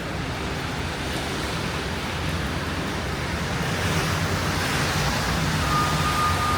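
City street traffic noise mixed with gusting wind, swelling about halfway through. Near the end a steady high tone begins.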